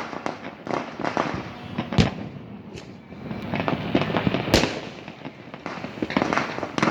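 New Year fireworks and firecrackers going off in a dense, irregular string of bangs and crackles. Two bangs, about two seconds in and about four and a half seconds in, are louder than the rest.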